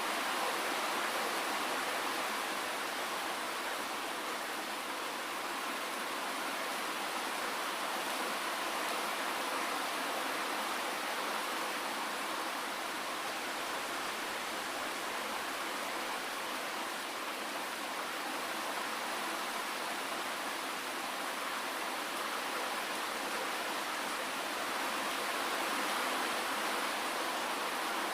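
Steady rainfall, an even, unbroken hiss that holds the same level throughout.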